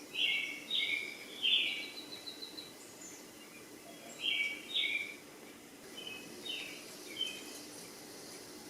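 Small bird chirping in short, sharp calls, mostly in pairs and triplets spread across the few seconds, with one quick trill about two seconds in.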